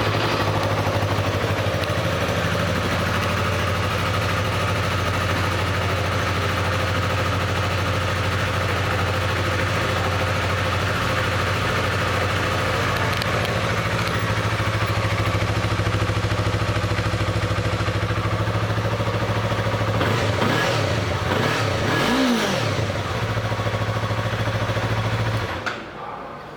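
2015 Yamaha YZF-R3's 321 cc parallel-twin engine idling steadily just after a start, then revved up and back down a couple of times, and shut off near the end.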